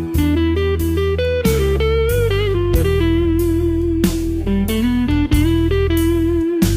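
Slow blues instrumental passage: an electric slide guitar plays a sustained lead line with bent notes over bass and a steady beat.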